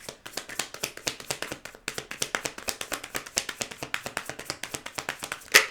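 A deck of tarot cards being shuffled by hand: rapid, irregular clicking of cards against each other, ending in one louder slap near the end.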